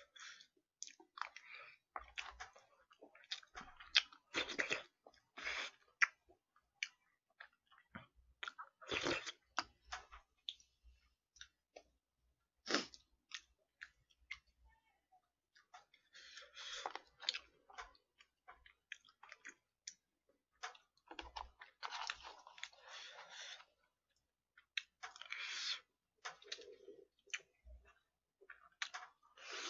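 Close-miked chewing and crunching of food, in irregular bursts with short pauses and scattered sharp clicks.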